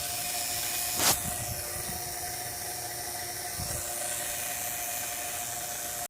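Steady hissing noise with a faint hum under it and a brief louder rustle about a second in, cutting off suddenly at the end.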